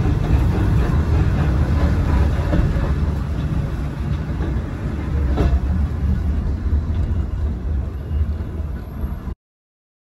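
Steady low rumble of a Volk's Electric Railway car running along its track, heard from inside the car, with one sharp click about five and a half seconds in. The sound cuts off abruptly about nine seconds in.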